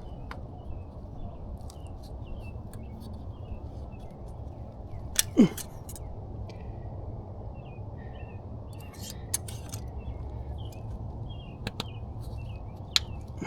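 Small birds chirping in short, repeated calls over a steady low rumble, with one sharp knock about five seconds in and a few lighter clicks later.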